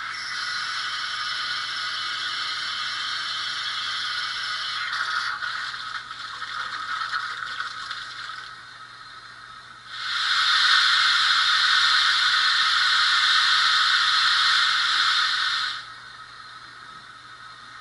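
Sound decoder in a model LMS Stanier 8F steam locomotive playing recorded steam hiss. The hiss runs for about five seconds, turns rougher and uneven until it stops about eight seconds in, then a louder hiss starts about ten seconds in and cuts off sharply about six seconds later.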